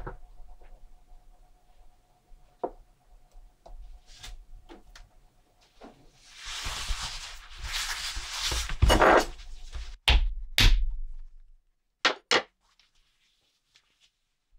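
Small metal watch parts and tools being handled on a workbench: a sharp click, scattered light ticks, a few seconds of hissing or scrubbing, then a handful of sharp metallic taps.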